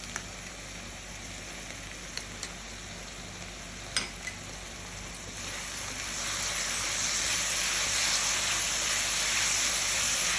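Vegetables and sauces sizzling as they fry in a hot pan, with a few light clicks in the first half. The sizzle grows clearly louder about halfway through and stays up.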